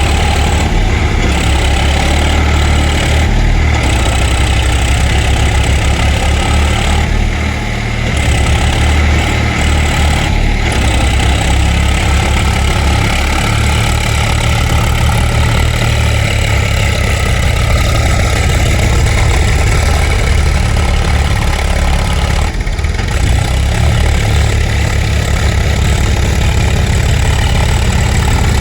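Tractor engine running steadily, with a brief dip in loudness about eight seconds in.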